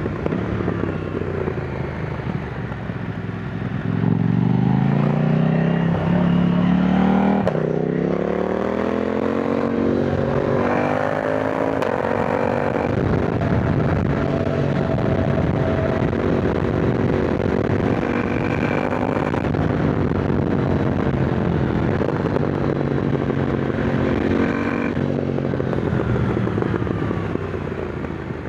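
KTM 990 Duke's twin-cylinder engine under way, pulling hard. The revs climb from about four seconds in, drop sharply near eight seconds at a gear change, and climb again. The engine then holds and eases up and down through the bends, over steady wind and road rush.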